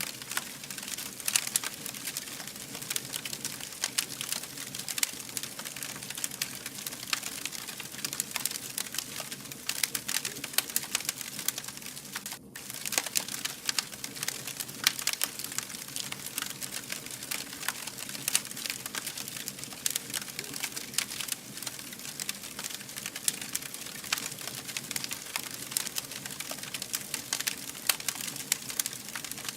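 Wood fire burning, with dense, irregular crackles and pops over a steady hiss. The sound drops out for a moment about twelve seconds in.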